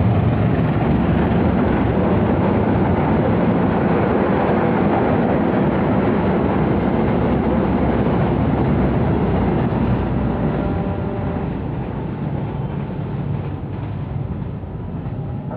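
Passenger train passing close by: a loud, steady rumble of wheels and carriages on the rails, easing off slightly over the last few seconds.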